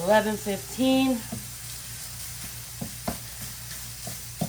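Breakfast sausage sizzling as it browns in a frying pan, with a few short sharp taps of a utensil breaking it up, around three seconds in and near the end.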